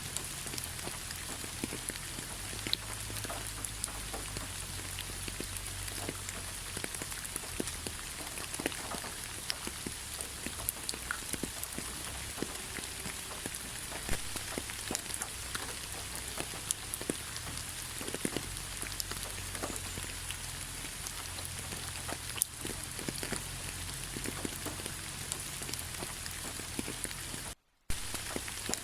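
Steady rain falling on a forest road, with many separate close drops striking among the even hiss. Near the end the sound cuts out to near silence for a fraction of a second, then comes straight back.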